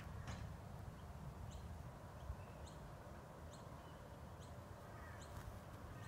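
A bird giving short, faint, high chirps, repeated about every half second to a second, over a low rumble of wind on the phone's microphone.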